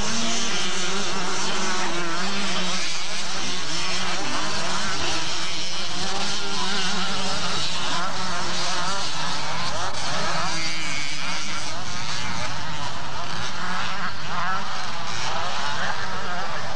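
Several motocross bikes racing at once, their engines revving up and down together in a dense, steady din.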